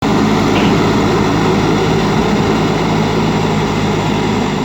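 A JCB backhoe loader's diesel engine running steadily under a working load.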